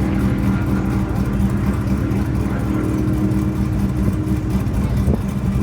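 The 800-horsepower engine of a 1971 Chevelle idling steadily on the burnout pad before the burnout.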